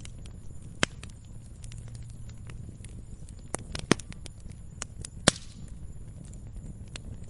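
Wood fire crackling: burning logs giving off irregular small pops, with a few sharper snaps standing out, the loudest a little past halfway, over a low steady rumble of the flames.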